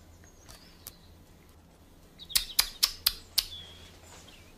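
Small birds chirping, with a quick run of about five sharp chirps a little after halfway.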